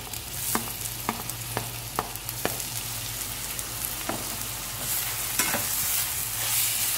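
Chopped tomatoes sizzling in hot oil with fried onions in a metal pan, with a spoon knocking sharply several times as the tomatoes are scraped in, then stirring near the end.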